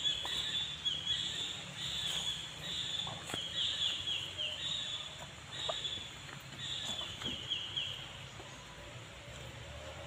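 Birds chirping in short, high-pitched bursts, some made of quick falling notes, repeating about once a second until they stop around eight seconds in.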